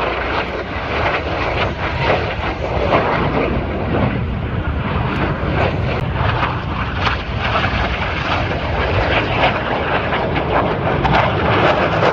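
Jet aircraft flying over, a loud, steady rush of engine noise that holds for the whole stretch.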